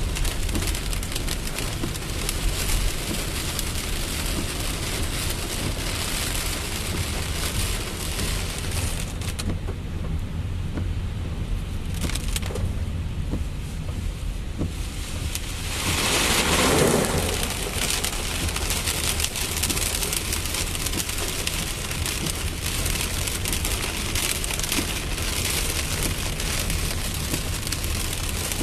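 Rain falling steadily, an even hiss of drops on surfaces, with a brief louder whoosh a little past the middle.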